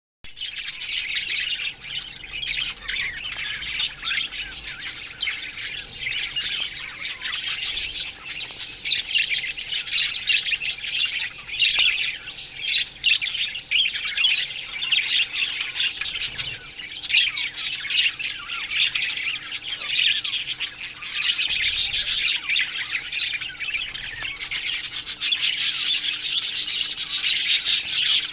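A colony of budgerigars chattering and chirping together: a dense, continuous mix of many overlapping warbles, chirps and squawks.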